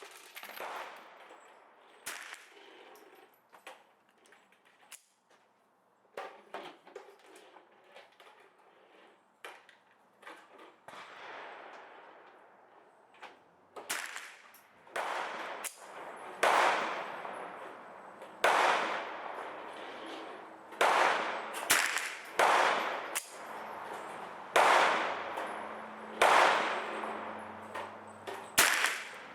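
Sig 522 .22 rimfire semi-automatic rifle firing a string of single shots of match ammunition, each a sharp crack with a ringing tail. The shots are fainter and sparse at first, then from about halfway come louder at an irregular pace of roughly one every one to two seconds.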